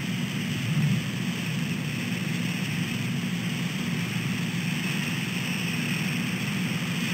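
Steady rain and wind noise on an outdoor microphone: an unbroken hiss over a low rumble.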